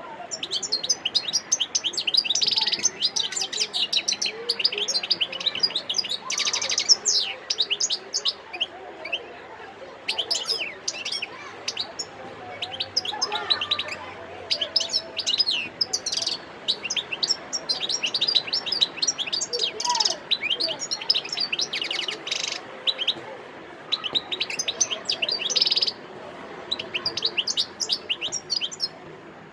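European goldfinch (mqnin) singing, a rapid high twittering song delivered in long phrases with brief pauses.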